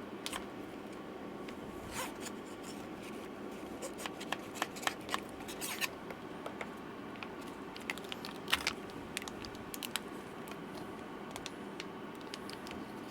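Scattered light clicks and short scrapes of small hand tools working inside an open laptop, undoing the fasteners that hold its battery, over a steady low hum.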